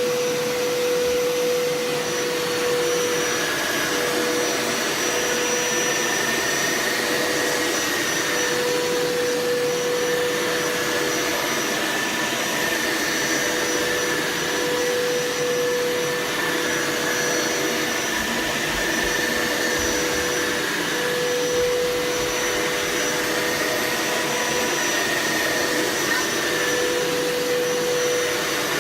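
Hoover Power Scrub Elite carpet shampooer running continuously on a rinse pass over carpet: a steady motor whine whose high tone wavers slightly as the machine is pushed and pulled.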